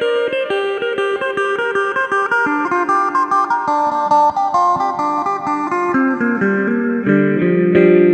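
Electric phin (Isan plucked lute) with a jackfruit-wood body, four strings and 18 frets, played solo: a quick picked melody with a sustained lower note underneath.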